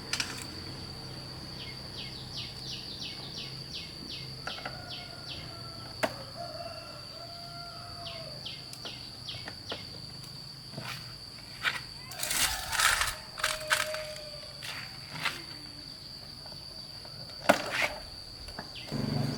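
Insects keep up a steady high-pitched drone, with runs of quick chirping ticks. Scattered sharp knocks and a brief clatter about two-thirds of the way in.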